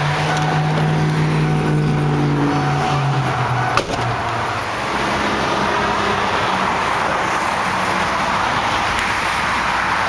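Vehicle noise from nearby highway traffic: a low steady hum for about four seconds, a single sharp click, then an even rush of passing traffic that swells slightly.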